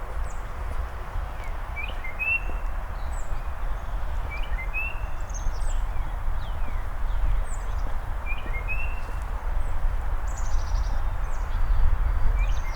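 Songbirds singing: one bird repeats a short phrase every two to four seconds while others chirp higher. Underneath runs a steady low rumble and hiss.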